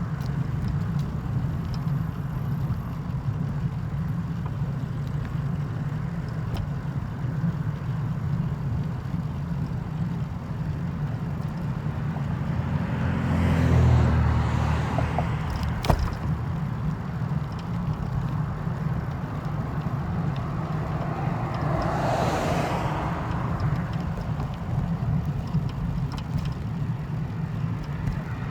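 A steady low mechanical rumble. It swells louder about halfway through, a single sharp click follows, and a hissy swell passes a few seconds later.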